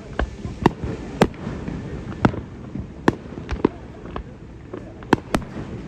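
Fireworks display shells bursting: about a dozen sharp bangs and pops at irregular intervals, some in quick pairs.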